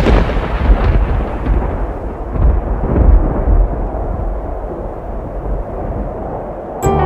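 Thunder sound effect: a long rolling rumble that swells again a few times and slowly dies away. Music comes back in near the end.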